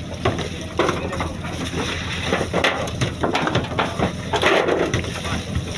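Irregular crunching and clattering knocks, several a second and uneven, over the steady low drone of a fishing boat's running engine.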